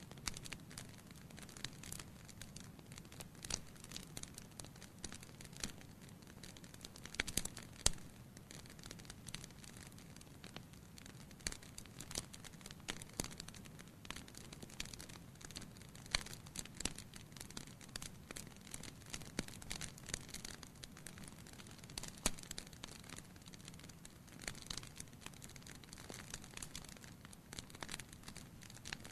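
Wood fire crackling in a fireplace: irregular small pops and snaps, a few louder ones, over a low steady hiss.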